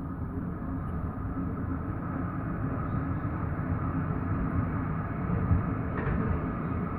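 Tram running along its rails, a steady low rumble of wheels and running gear as heard from inside the car, with a short clack about six seconds in.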